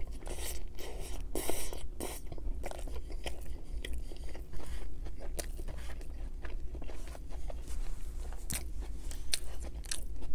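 A person chewing and biting food close to the microphone, a mouthful of McDonald's burger and poutine: many short mouth clicks and smacks, busiest in the first couple of seconds and again near the end.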